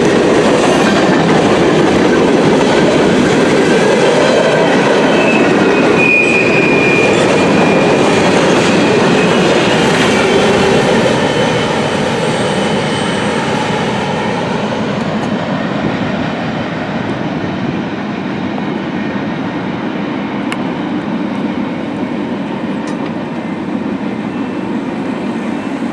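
Norfolk Southern freight cars rolling past on steel wheels, with clickety-clack over the rail joints and a brief high wheel squeal about six seconds in. The sound fades after about eleven seconds as the train moves away.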